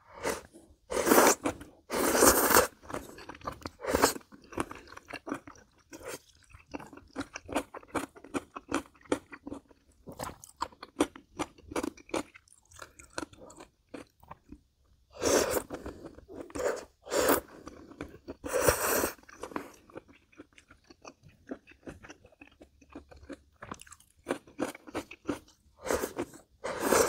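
A person chewing and crunching food close to the microphone while eating jjamppong noodle soup. There are many quick, sharp mouth clicks and a few louder, longer bursts about a second in and again around the middle.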